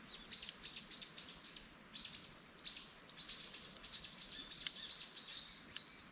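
A songbird singing a long series of short, high, downward-slurred notes, about three a second, quickening and falling slightly in pitch toward the end.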